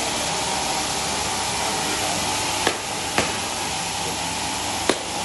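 Sawmill machinery running with a steady, loud noise, broken by three sharp knocks in the second half.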